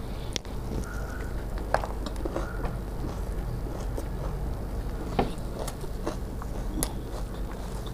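Chewing a mouthful of puffed rice mixed with yellow pea curry, with scattered small crunches and wet clicks, while fingers mix puffed rice on a steel plate. A steady low hum runs underneath.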